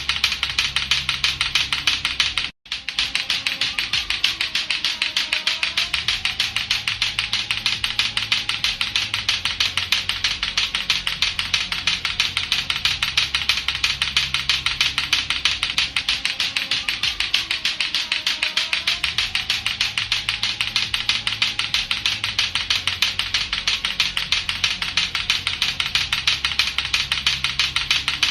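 Latto-latto clacker toy, two hard plastic balls on a string knocking together in a rapid, even clacking, with a momentary break about two and a half seconds in.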